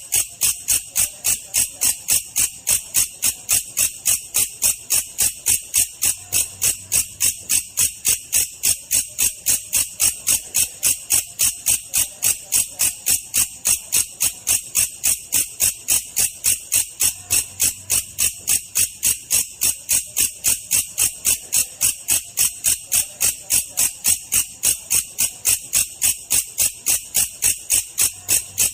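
Belalang kecek katydid calling: a steady, even train of high-pitched, rasping chirps, about three a second, without a break. It is played as a slow-version training call for lovebirds and other songbirds to copy.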